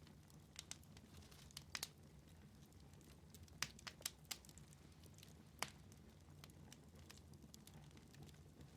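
Wood fire in a fireplace crackling quietly: scattered sharp pops and snaps, the loudest between about three and a half and six seconds in, over a faint low hum.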